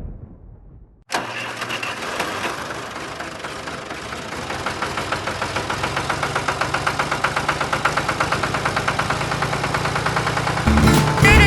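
Motorbike engine running, cutting in abruptly about a second in, with an even rapid pulsing that grows a little louder partway through. Music comes in near the end.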